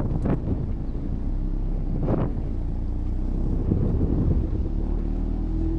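An engine idling steadily, with wind on the microphone and a short sharp noise about two seconds in.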